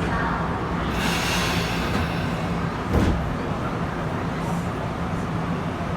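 Inside a Tokyu 8500 series train car: a steady low hum, with a hiss from about one to two seconds in and a single thump about three seconds in.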